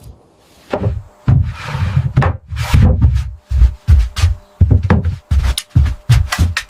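Wooden planks being hammered into place: repeated dull thuds, about two a second, starting about a second in.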